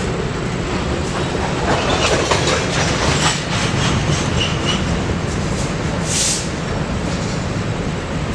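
A freight train rolling past on the rails, with a steady low rumble and wheels clacking over the rail joints, then a short high hiss about six seconds in.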